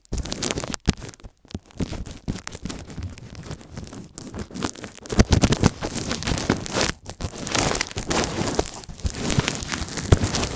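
Earphones rubbed and pressed against a microphone: dense, irregular crackling and scraping right on the mic, with a few brief dropouts near the start.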